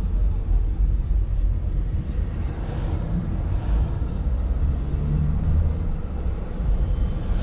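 A moving car's engine and tyres make a steady low road rumble, heard from inside the car. There is a brief swell of hiss about three seconds in.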